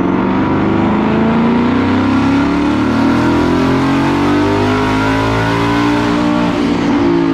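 Twin-turbocharged 5.0 Coyote V8 of a Mustang GT at full throttle on a chassis dyno, its engine note climbing steadily in pitch as it pulls up through the revs.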